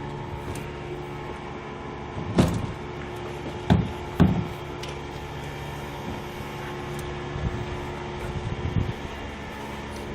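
A steady mechanical hum with three loud knocks or bangs a little over two seconds in, then a handful of lighter knocks near the end.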